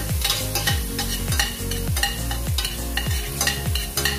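A metal spoon stirring and scraping chopped onions and meatballs sizzling as they brown in a stainless steel pot, over background music with a steady beat.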